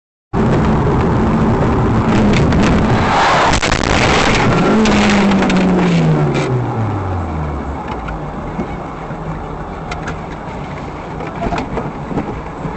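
Road vehicle noise: a loud rumble with scattered knocks and rattles for about six seconds, and an engine note that drops steadily in pitch near the middle, then quieter steady running noise.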